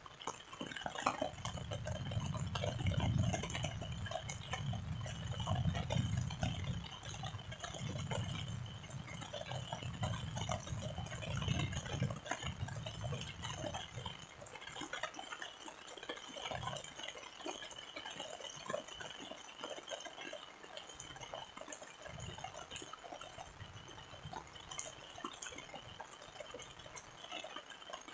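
Rain falling, with many small drips and patter, over a low rumble that fades out about halfway through.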